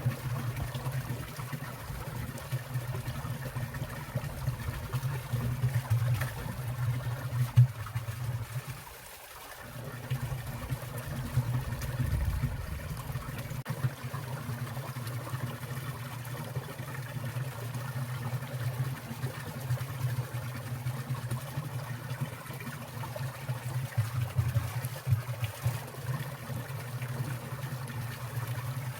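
Water trickling and gurgling in a winter valley stream among icicles, a steady deep burble that drops away briefly about nine seconds in.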